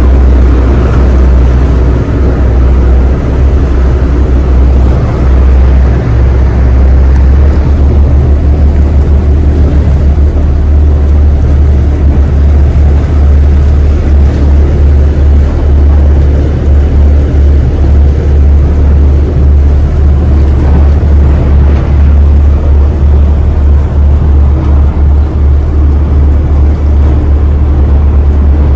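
Ferry New Kasaoka under way: a loud, steady, low engine rumble heard aboard.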